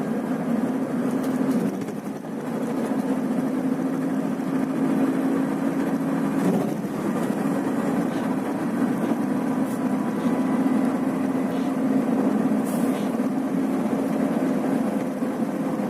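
Scania coach running steadily on the highway: a steady low engine drone over road noise.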